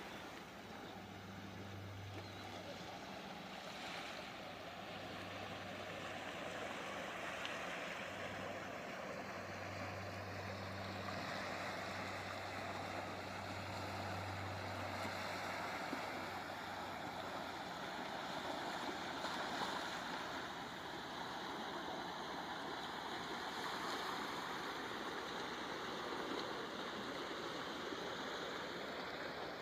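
Steady rushing noise of a bicycle ride: wind over the microphone and tyres rolling. A low steady hum runs under it for roughly the first half, then fades out.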